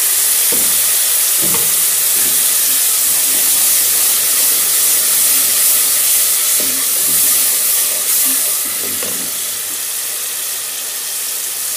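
Ground tomato paste frying in hot oil with onions and ginger-garlic paste in a non-stick pan: a loud, steady sizzling hiss, with a wooden spoon stirring through it. The sizzle eases a little near the end.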